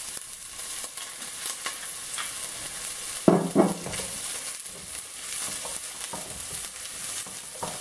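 Chopped onion and garlic sizzling steadily in hot olive oil in a stainless steel pot, while a wooden spoon stirs, scraping and tapping against the pot.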